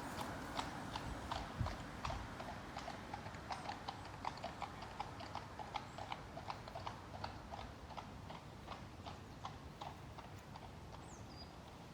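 Horse hooves clip-clopping at a walk, about three or four hoofbeats a second, slowly growing fainter.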